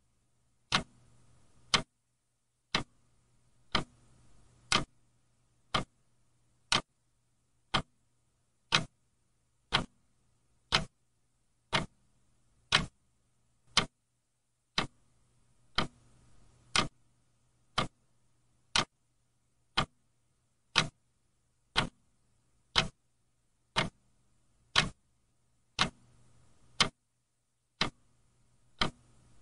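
Clock ticking steadily, a sharp click about once a second, over a faint low hum.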